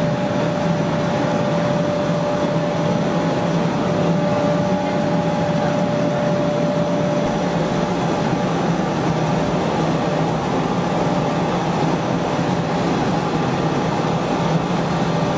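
Chili powder roller mill running: a loud, steady mechanical din with a low hum. A steady high tone in it stops about seven seconds in.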